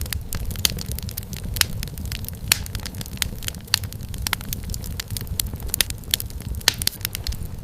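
Wood fire burning: irregular sharp crackles and pops of firewood over a steady low rumble of flame.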